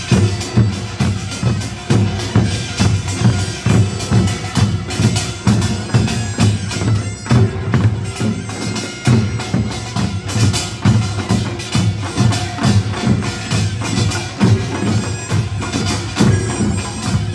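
Korean nongak farmers' band playing: drums and small hand gongs beat out a fast, driving rhythm of dense, even strokes.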